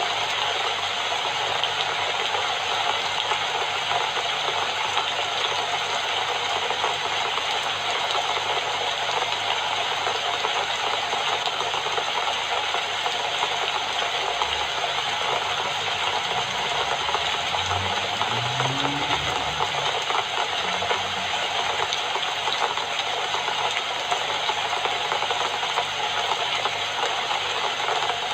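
Steady rain falling, an even hiss with no breaks. A faint low rumble comes in for a few seconds in the middle.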